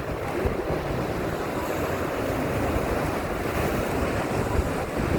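Ocean surf washing onto a sandy beach, a steady rushing noise, with wind buffeting the microphone in uneven low rumbles.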